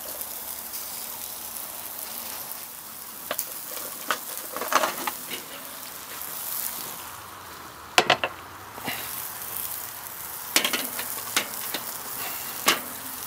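Steady sizzling of tortilla chips frying in oil in a hot cast-iron skillet on a grill. Several sharp clicks and knocks sound over it as the pan is handled with a pot holder, the loudest about eight seconds in.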